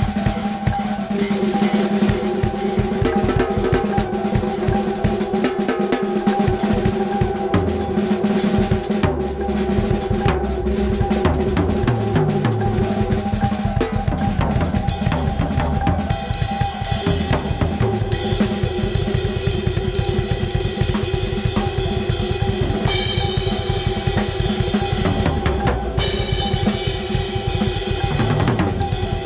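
Drum kit played freely with rapid kick, snare and cymbal hits, over steady sustained droning tones from a layered soundscape.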